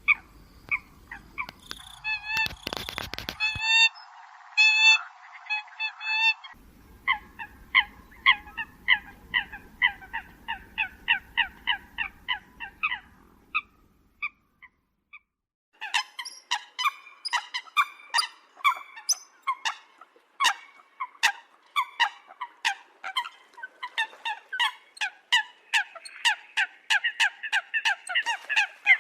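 Eurasian coots calling: rapid series of short, honking calls, several to a second, with a brief pause about halfway through before the calls resume, denser and overlapping, near the end.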